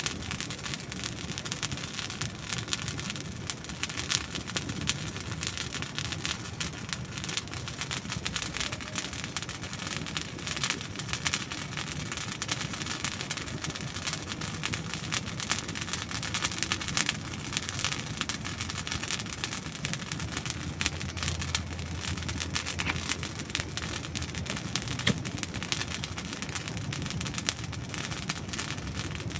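Campfire of dry wood burning, with dense continuous crackling and frequent sharp pops and snaps.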